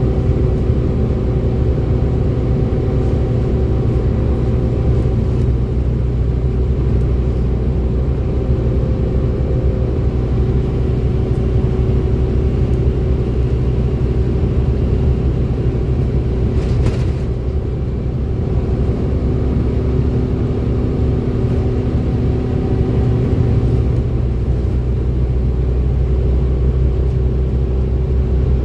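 Salisbury Reds bus 1140's diesel engine and drivetrain running under way, a heavy rumble with a steady whine on top, the "hoover" sound. A brief hiss cuts in a little past halfway.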